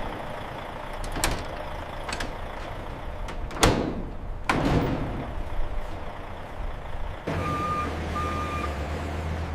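Loading-dock noise: a series of knocks and clanks, the loudest about three and a half seconds in. About seven seconds in, a vehicle's engine comes in with a steady low hum, and a reversing alarm beeps twice.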